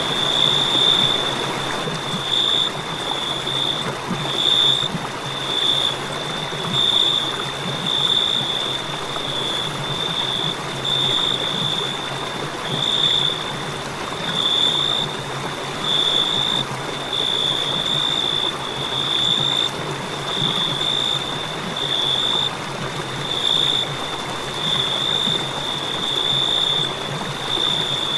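Crickets chirping: a high, steady trill that swells about once a second, over a steady background hiss.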